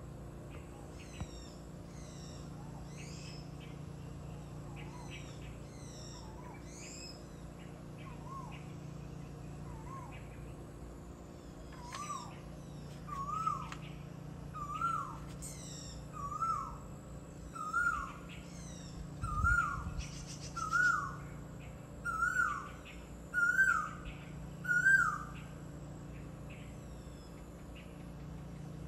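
A bird repeating one whistled call that rises and falls, about one call every second; the series grows louder and a little higher in pitch, then stops a few seconds before the end. Higher, quicker chirps of other small birds sound through the first half, over a steady low hum.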